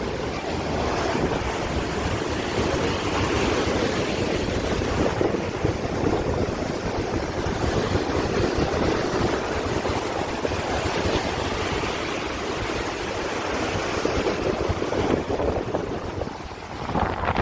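Steady loud rush of water, with wind buffeting the microphone; the sound starts and stops abruptly.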